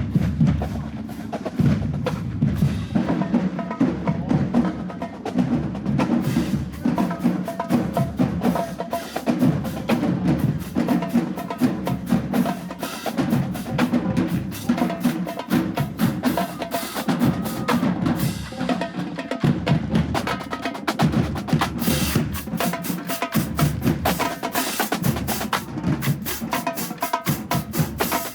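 Marching band drumline playing a fast cadence of snare and bass drums. Sharp strokes follow each other quickly and evenly, and they turn brighter and denser in the last third.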